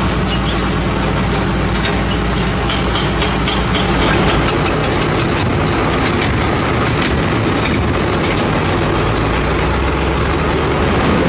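Heavy crawler excavator's diesel engine running, with a rapid run of metallic clicks and clanks over the first few seconds, then steadier running.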